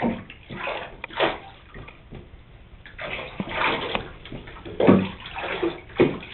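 Water splashing and pouring in a bathtub as a cat is wetted down, coming in irregular swells.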